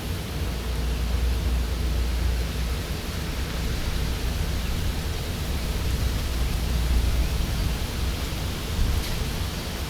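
Steady outdoor background noise: a low rumble that swells and ebbs, with an even hiss above it.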